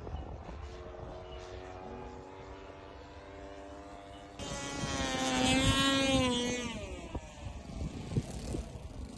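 Small engine of a remote-control model airplane droning overhead. It starts faint, then about four seconds in it suddenly gets loud, its pitch sliding up and then down as it flies past, and it fades away about three seconds later.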